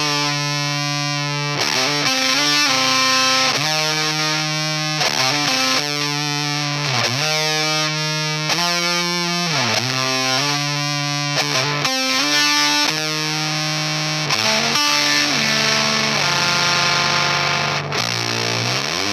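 Baritone electric guitar played through an EarthQuaker Devices Erupter fuzz pedal: sustained, heavily fuzzed single-note lines that sing and hold, with slides between some of the notes.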